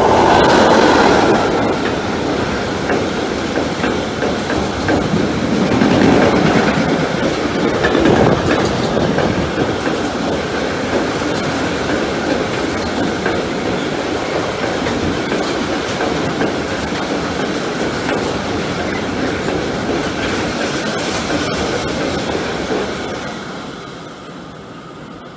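A long train passing through at speed, its wheels clattering over the rail joints for about twenty seconds before the sound dies away near the end.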